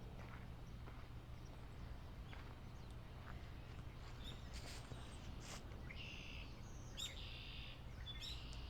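Wild birds calling in a wetland: a few short calls, then three buzzy, drawn-out calls in the second half, over a faint low rumble.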